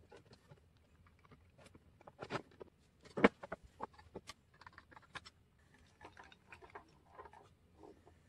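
Scattered light clicks and taps of small plastic parts and wiring being handled and fitted into a model truck chassis, with one sharper click about three seconds in.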